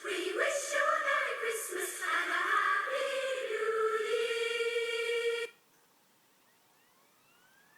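Children's choir singing, ending on one long held note that cuts off abruptly about five and a half seconds in.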